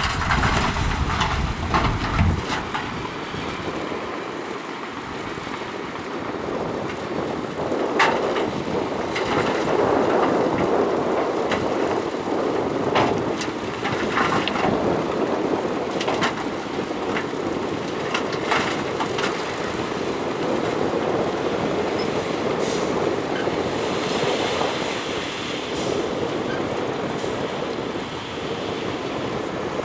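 Shantui crawler bulldozer working, its diesel running steadily under load while its steel tracks clank, with scattered sharp metallic knocks. A heavier deep rumble in the first two seconds then eases.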